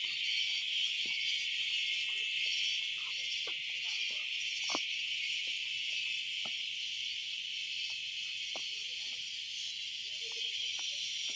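Steady, shrill chorus of forest insects, with a few faint ticks and knocks.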